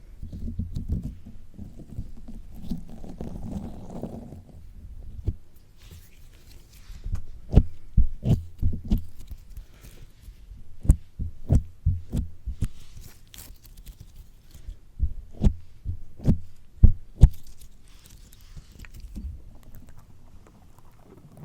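Slime squished and pressed directly against a microphone: muffled low squishing with many irregular sharp, sticky pops and clicks.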